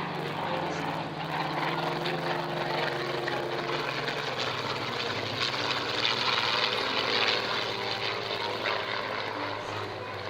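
Aircraft engine running steadily in flight: a low, even hum with a rushing noise above it.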